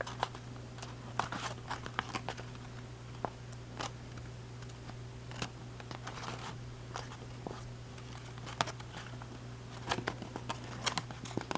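Origami paper being pinched and folded by hand: scattered short crinkles and crackles of the paper, over a steady low hum.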